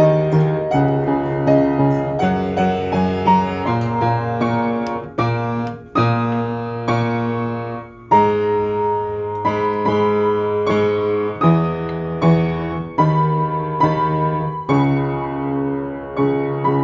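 Piano playing a slow, melodic piece: single notes struck one after another over held chords and bass notes.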